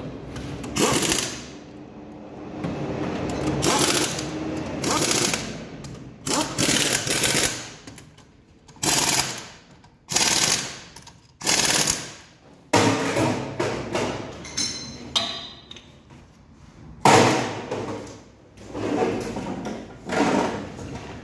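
New brake pads having their edges filed by hand with a file, about a dozen irregular strokes, each about a second long. The edges are being chamfered to keep the pads from squealing.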